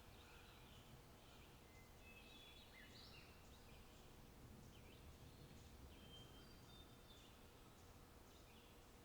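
Faint birdsong: many short chirps and whistles, one every second or so, over a low, quiet rumble.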